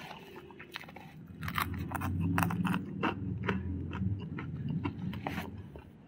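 Close-miked chewing of crispy fried food, with many sharp crunches one after another. The chewing is loudest in the middle and eases off near the end.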